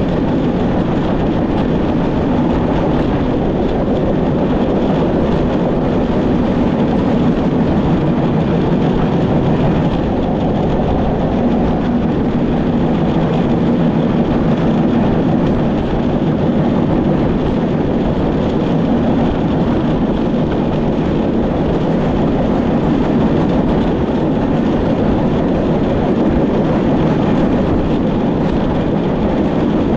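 Steady, loud running noise of a moving train heard from the locomotive cab.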